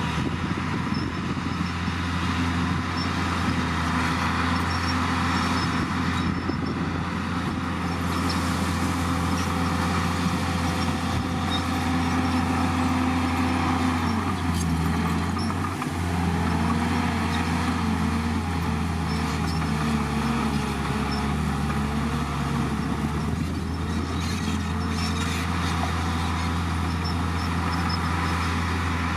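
Komatsu D51PX bulldozer's diesel engine running steadily under work. About halfway through, the engine note dips, then wavers up and down for several seconds as the load changes, before settling again.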